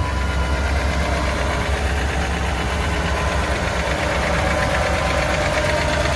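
A 1985 Mercedes-Benz W126 SEC's V8 engine running steadily at idle, restarted after a new fuel pump was fitted.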